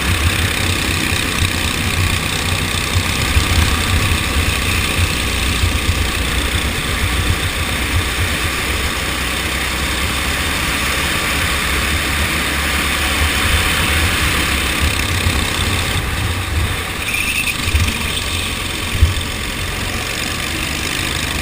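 Racing kart engine running steadily, with a heavy, uneven low rumble.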